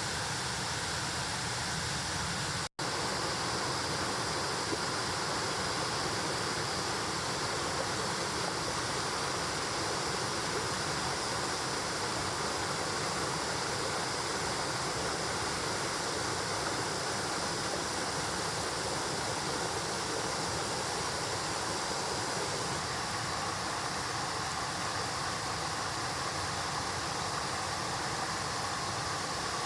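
Mountain stream water rushing steadily, with a momentary drop-out about three seconds in.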